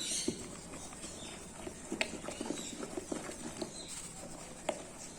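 A spoon stirring thick corn cake batter in a bowl, making irregular taps and soft clicks against the bowl.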